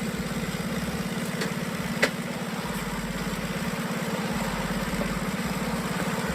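Car engine running steadily, heard from inside the cabin, with one sharp click about two seconds in.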